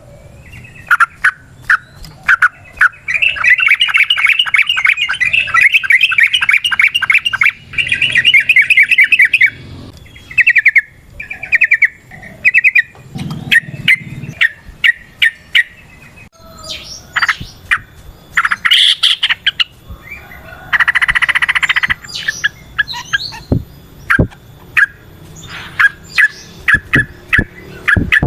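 Yellow-vented bulbul (trucukan) calling: sharp repeated chirps, with a long, fast trill of rapid notes lasting several seconds a few seconds in, and a harsh, buzzy call about two-thirds of the way through.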